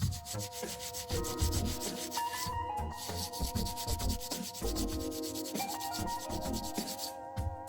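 Rapid, repeated scraping on the metal filter basket of an espresso machine, over held musical chords.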